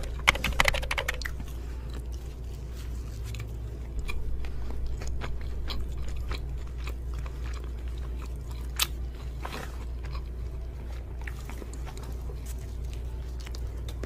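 Close-miked biting and chewing of a hamburger: a burst of loud bites and wet mouth clicks in the first second, then steadier chewing with scattered clicks and smacks.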